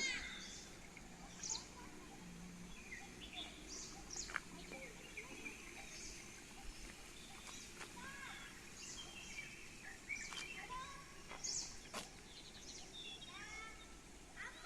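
Birds calling faintly: many short chirps and arched call notes, scattered and overlapping, over a low steady background hum.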